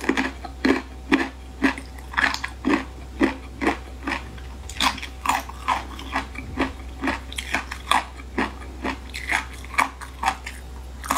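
Close-up chewing of crunchy 'triangle bone' (三角骨) cartilage in spicy-sweet sauce: crisp crunches at about two a second, over a faint steady low hum.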